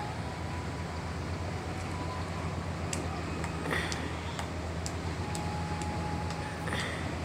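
Boat engine running steadily with a low drone, with a few light clicks and taps over it in the second half.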